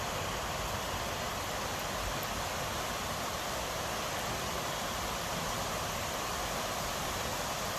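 Steady rainfall, a constant even hiss of rain falling.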